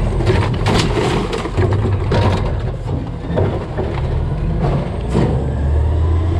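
A Peterbilt 320 CNG garbage truck with a DaDee Scorpion body running steadily, with several sharp knocks and clatters: a cluster about a second in and another just after five seconds.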